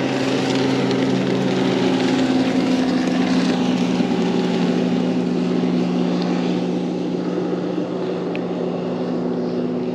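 A motor running steadily: a constant low, even hum with a broad rush of noise over it, a little louder during the first few seconds.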